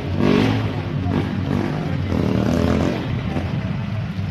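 A motor vehicle's engine running steadily, with a constant hiss of noise over it.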